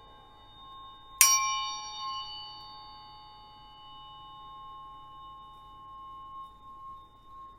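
A metal tuning fork struck once, about a second in, with a bright clang that quickly gives way to a long, clear ringing tone. The tone fades slowly and lingers over the softer ring of an earlier strike.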